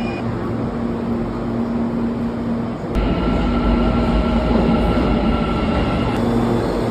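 A train running: a steady rumble with a hum. The sound changes abruptly about three seconds in and again about six seconds in.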